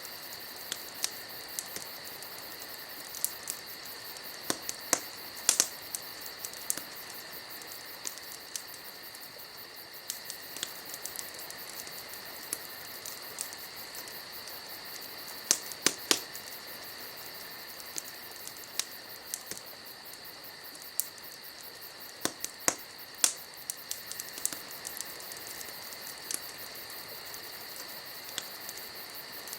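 Wood fire crackling, with sharp irregular pops and snaps, a few louder than the rest. Crickets chirr steadily behind it.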